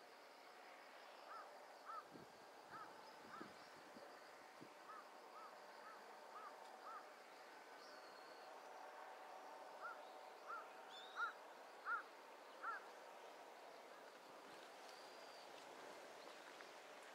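A bird calling in a run of short, clear, arched notes, repeated irregularly and loudest about eleven to thirteen seconds in, over faint outdoor background.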